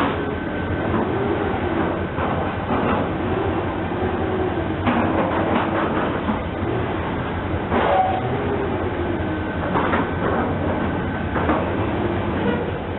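Train rolling on steel rails: a steady rumble with a wavering hum and scattered wheel clicks over the rail joints.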